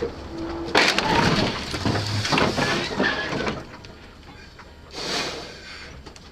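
Vehicle collision: a loud crunching, rattling impact noise with many sharp cracks, lasting about three seconds, followed by a shorter burst of noise about two seconds later.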